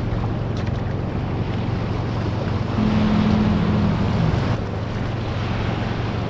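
Ocean surf and wind noise on the microphone, a steady rushing haze. Low steady tones sit underneath and shift pitch in steps about three and four seconds in.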